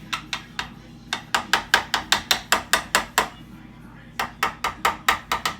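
Rapid, hard knocks of a kitchen utensil against cookware, about five a second in three runs, each knock ringing briefly.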